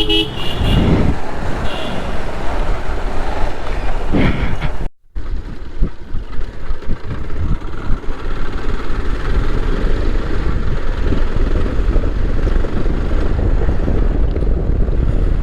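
Motorcycle under way in traffic: steady wind rush on the microphone over road and engine noise. The sound cuts out briefly about five seconds in, then the same steady riding noise resumes.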